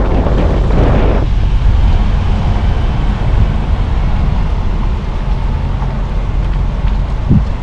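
Car driving along, with a loud, steady low rumble of road and engine noise. A rushing noise fades out about a second in, and a brief thump comes near the end.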